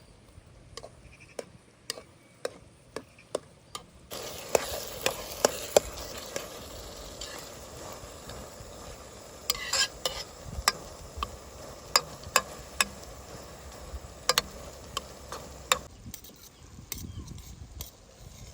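Food frying and sizzling in a hot pot while a utensil stirs and clicks against the metal. Light taps come first; the sizzle starts about four seconds in and stops abruptly near sixteen seconds, followed by a few more taps.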